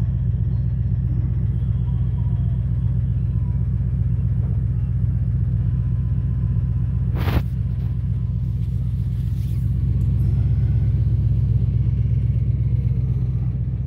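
Low, steady rumble of a vehicle's engine running at idle, with one sharp click about seven seconds in.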